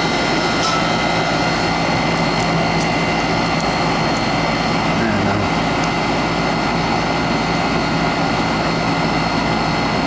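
Central air conditioner's outdoor condensing unit running steadily: the compressor's low hum under the condenser fan's steady rush of air.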